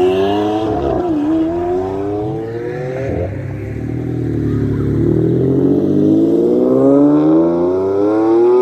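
Lamborghini V12 supercars accelerating hard away from a standstill. First the Aventador's engine revs up, its pitch dipping at an upshift about a second in and dropping sharply at another after about three seconds. Then the Diablo's V12 revs up in one long, steady climb in pitch to the end.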